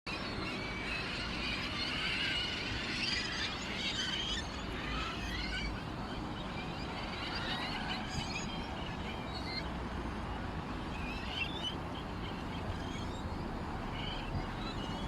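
Several small birds chirping and twittering in quick, overlapping calls over a steady background hiss.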